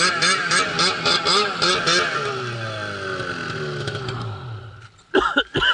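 Arctic Cat snowmobile engine revving in quick pulses, about three a second, then winding down with a steadily falling pitch as the sled slows.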